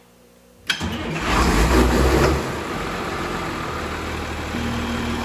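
Case 7140 tractor's diesel engine starting: it catches about a second in, runs rough and loud for a moment, then settles into a steady idle. The clip cuts off abruptly.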